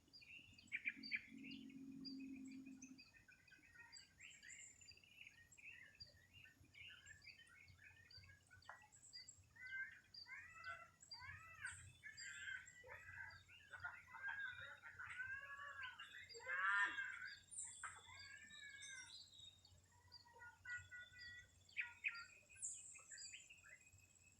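Small birds chirping and calling, many quick overlapping notes that are busiest around the middle, over a faint steady high-pitched hiss.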